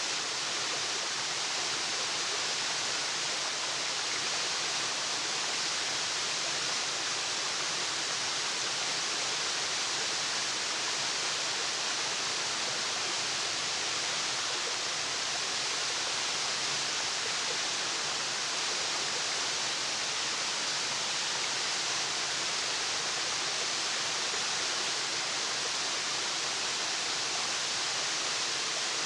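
Waterfall rushing steadily, an even hiss of falling water that stays the same throughout.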